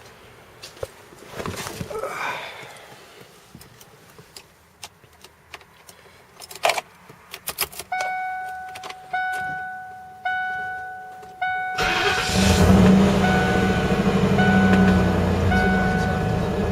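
Scattered clicks and knocks, then a car's warning chime repeating about once a second. About twelve seconds in, the Lincoln Mark VIII's 4.6-litre DOHC V8 cranks and catches at once on a cold start after sitting all winter, then settles into a steady idle with the chime still sounding over it.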